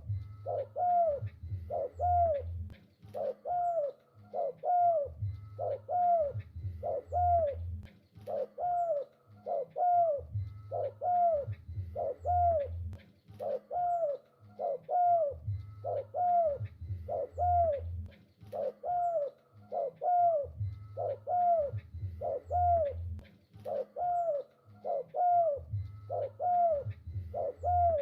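Spotted dove (tekukur) cooing: short notes repeated about one and a half times a second, with a deeper phrase underneath in groups every five seconds or so, in an even, repeating pattern.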